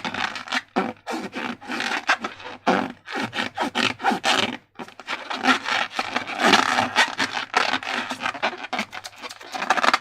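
Slime being worked by hand, a dense run of short sticky clicks and rasping squelches with brief pauses between handfuls.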